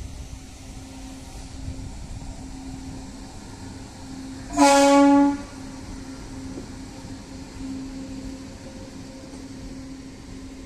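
Indian Railways MEMU electric multiple unit running past with a steady hum and rumble, and one short horn blast of under a second about halfway through, the loudest sound.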